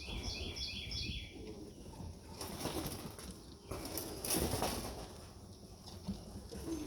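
Pigeons flapping their wings in two short bursts, about two and a half seconds in and again about four seconds in. A small bird chirps a quick repeated phrase during the first second, over a steady low wind rumble.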